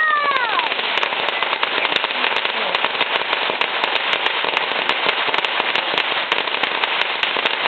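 Consumer fireworks crackling with a dense, rapid, unbroken run of sharp pops, like a string of firecrackers or a crackling fountain going off.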